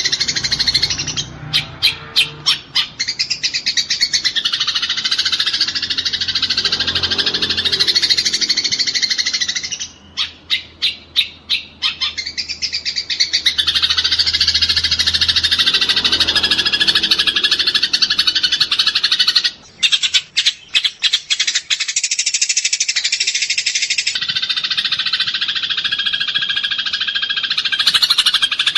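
Eurasian tree sparrows chattering and chirping densely in a fight, a continuous high, harsh stream of calls. Runs of rapid sharp chirps, several a second, break through a couple of seconds in, around ten seconds in and again around twenty seconds in.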